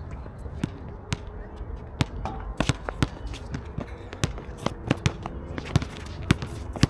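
Basketballs bouncing on a hard court, a string of sharp, irregularly spaced thuds, several close together at times, over a steady low background rumble.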